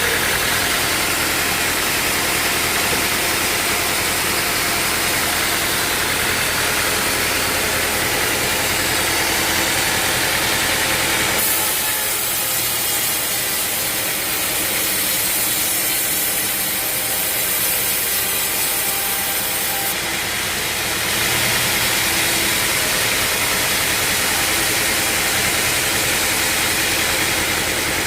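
Sawmill machinery running steadily, with a change in its sound about 11 seconds in and again near 21 seconds.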